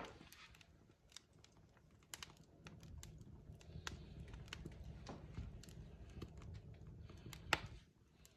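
Wood fire crackling in a fireplace: burning logs give off irregular sharp snaps and pops, one louder pop near the end, over a low rumble of flames that swells a few seconds in.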